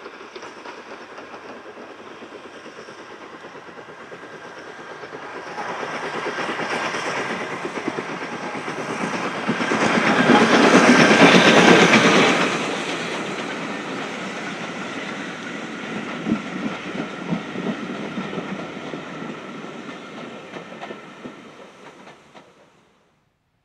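A train running past, growing louder to a peak about ten to twelve seconds in and then fading, with its wheels clicking over the rail joints. The sound cuts off suddenly near the end.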